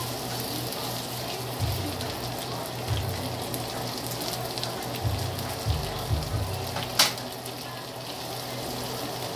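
Chicken pieces sizzling steadily in hot oil in a nonstick wok, with a slotted spatula scraping and bumping against the pan a few times. There is one sharp click of a utensil striking the pan about seven seconds in.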